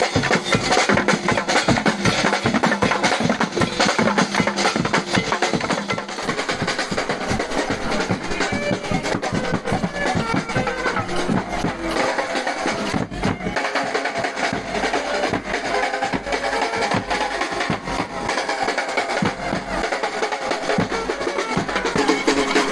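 Music with dense, fast drumming and percussion, going steadily throughout.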